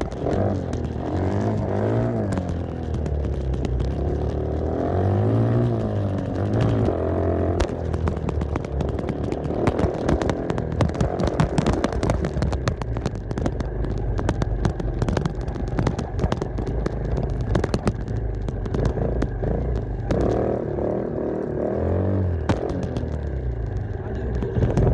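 Dirt bike engine being ridden, its pitch climbing and dropping repeatedly as the throttle is opened and closed, with many sharp clicks and knocks throughout.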